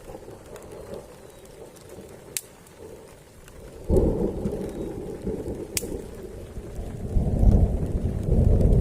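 Thunder rumbling through heavy rain: a peal breaks in suddenly about four seconds in, and a louder rumble builds near the end, with a few sharp ticks of raindrops.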